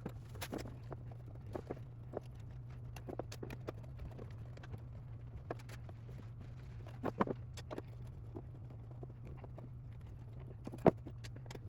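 Scattered small clicks and taps of hand assembly: M3 bolts driven with a hex key into a printer frame's aluminium extrusions, and small metal parts handled, over a steady low hum. One sharper click comes near the end.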